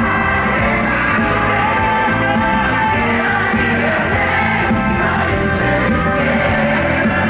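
Loud live pop-rock concert music from within the audience: vocals sung over a full band, with shouts and yells.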